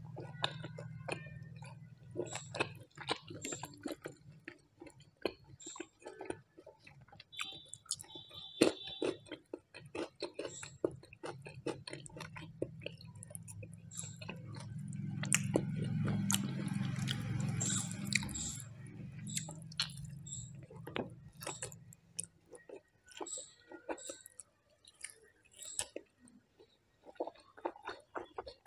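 Close-miked chewing of a meal eaten by hand, many small wet mouth clicks and smacks. A steady low background hum runs under it and stops about three quarters of the way through.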